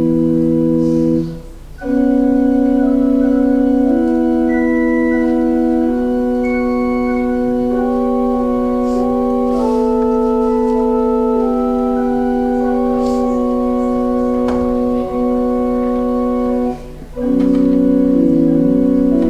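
Organ playing a slow piece in long sustained chords, with brief breaks between phrases about a second and a half in and again near the end.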